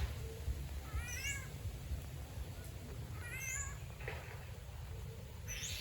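A bird giving two short, wavering, cat-like mewing calls about two seconds apart, each with a quick high chirp; another high chirp comes near the end.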